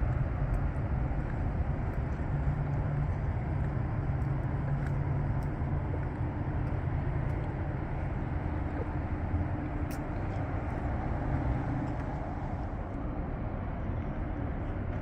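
Steady low rumble of motor vehicle noise, with a brief click about ten seconds in.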